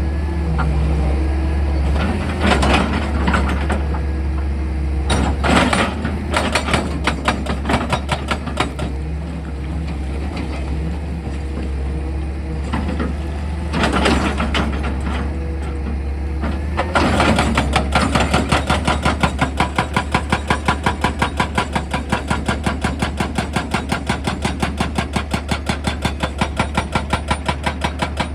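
A heavy machine's diesel engine hums steadily, with a few single heavy knocks. About two-thirds of the way through, a percussive rock drill starts hammering at a fast, even rate of about four to five blows a second and keeps on.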